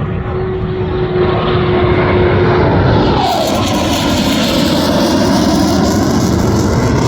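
Eurofighter Typhoon's twin jet engines, loud and growing louder over the first second or so, the noise widening into a hiss just after three seconds in, with a tone that falls in pitch as the jet passes.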